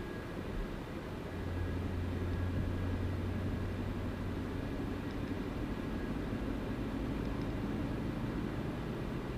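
Car driving steadily: engine drone and road noise. The low engine hum swells slightly about a second and a half in, then holds.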